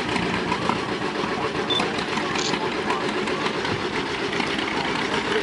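Vintage tractor engines running steadily, a dense, even engine sound with no break.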